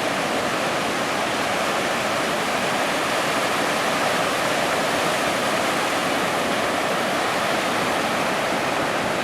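Steady, unbroken rushing noise of breaking ocean surf, with no rise or fall in level.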